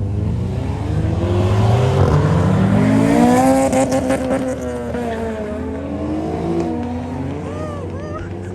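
Modified car's engine revving hard, its pitch climbing steeply to a loud peak a few seconds in, then dropping and rising again more gently as it eases off.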